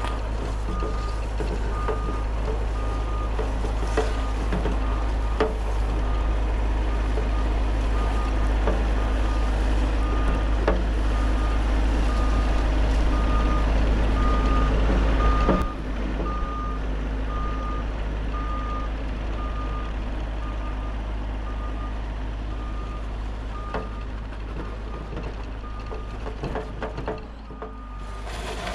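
Bobcat E50 compact excavator running while it works, its travel alarm beeping steadily about one and a half times a second, with a few sharp knocks along the way. The engine sound drops a little about halfway through.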